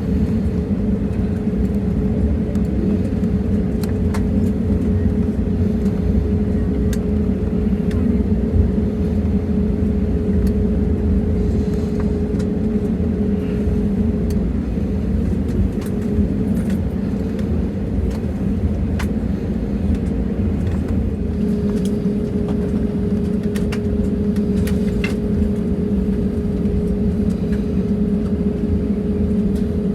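Airbus A320neo cabin noise on the ground just after landing: the engines run with a steady hum and a constant tone, over a low rumble from the wheels, with a few light clicks and rattles from the cabin.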